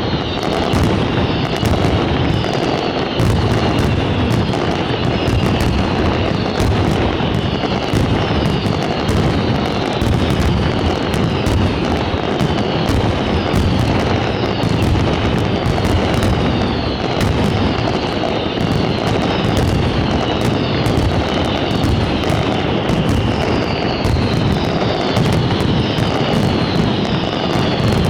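Fireworks in a continuous barrage: a dense, unbroken rumble of bursts with constant crackling, and a falling whistle from a whistling firework every second or two.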